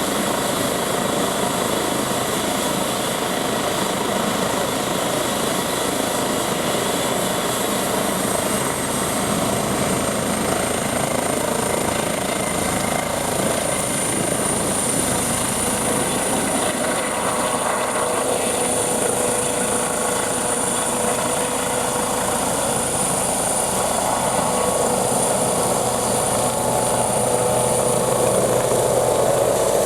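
Eurocopter EC-135 T2+ helicopter running, its twin turboshaft engines and rotor making a steady roar under a thin high whine. The whine rises slightly about a quarter of the way in and then holds, and the sound grows a little louder near the end.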